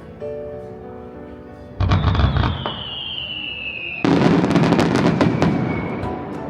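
Aerial fireworks bursting, with music playing underneath. A loud burst comes about two seconds in, followed by a whistling tone that slowly falls in pitch. A second, louder burst comes about four seconds in, followed by about two seconds of crackling.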